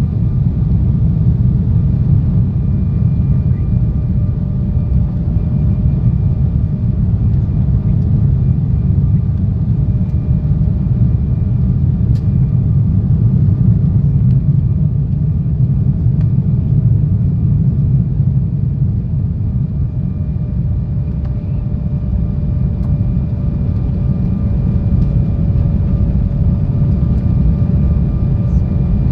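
Cabin noise inside an Embraer E170 airliner: a steady low rumble of airflow and engines, with a faint steady whine from its GE CF34 turbofans.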